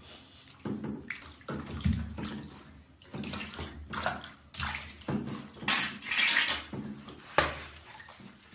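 Water splashing and sloshing in irregular surges, the loudest a little past the middle, with a sharp splash soon after.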